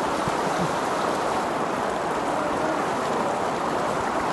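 Steady rushing of water, an even noise that holds at one level.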